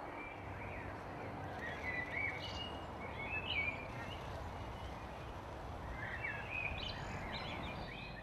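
Outdoor ambience: a steady low background hiss, with short bursts of small-bird chirping a few times.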